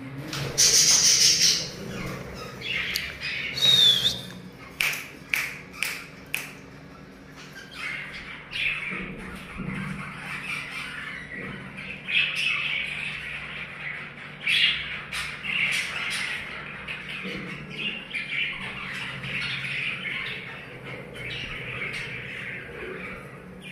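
Budgerigars chattering and chirping, with a loud harsh squawk about a second in and a run of short sharp clicks around five to six seconds in.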